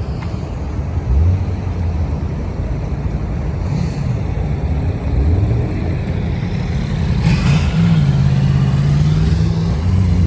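Car engine running, its pitch rising and falling as it is revved, with a short burst of hiss about seven seconds in.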